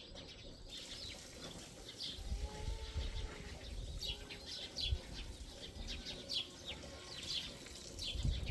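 Small birds chirping repeatedly in short, high notes, over a low rumble.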